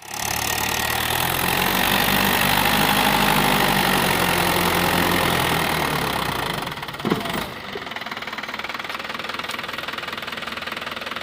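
Mahindra 415 DI tractor's diesel engine running loudly and steadily. About seven seconds in there is a single sharp knock, after which the engine sound carries on much quieter.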